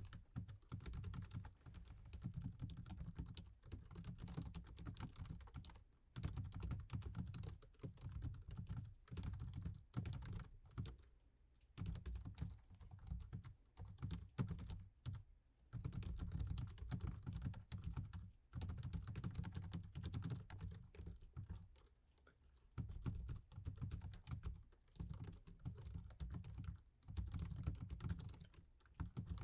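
Continuous typing on a laptop keyboard: rapid, dense key taps in runs of a few seconds, broken by brief pauses.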